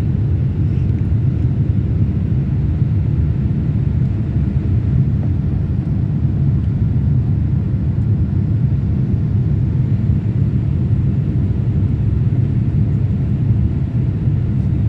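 Cabin noise inside a Boeing 787-8 Dreamliner climbing with its flaps retracted: a steady low rumble of the engines and airflow.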